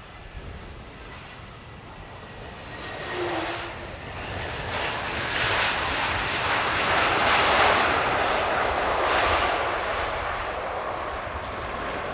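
Airbus A320neo jet airliner coming in to land, its engine noise swelling to a peak about two-thirds of the way in, then fading. Strong wind buffets the microphone throughout.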